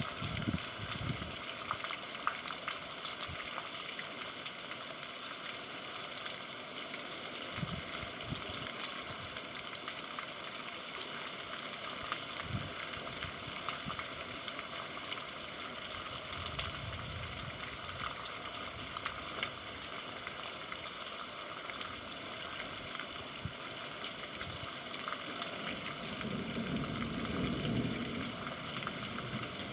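Steady rain falling, an even hiss made of countless small drop ticks, with water gushing. A few dull low thuds come through, and a low rumble swells a few seconds before the end.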